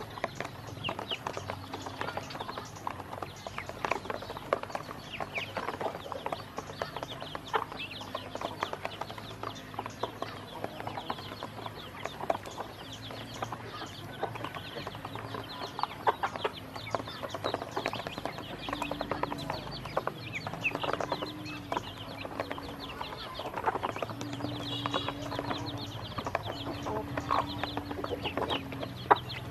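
A group of ducklings peeping and chattering, mixed with many short taps and clicks.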